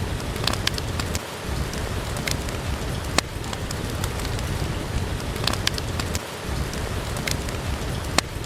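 Steady rain with a low rumble, broken by occasional sharp crackles and pops from a wood fire burning in a fireplace.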